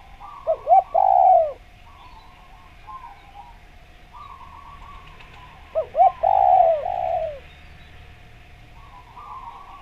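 Spotted dove (derkuku) cooing: two loud phrases, about half a second in and again about six seconds in, each two short notes then a longer falling coo. Softer bird calls continue in between.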